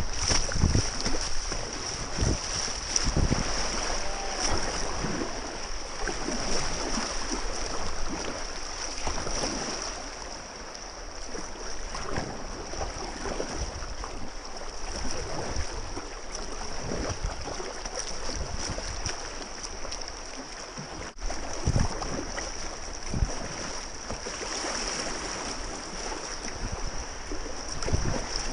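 Rushing whitewater of a river, with irregular splashes and knocks of kayak paddle strokes through it.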